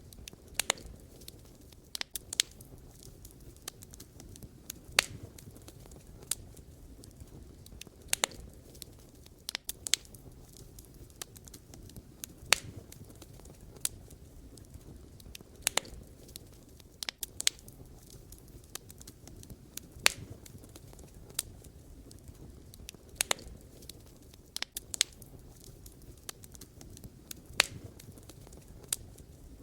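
Wood fire burning, with irregular sharp crackles and pops over a soft low rumble of the flames.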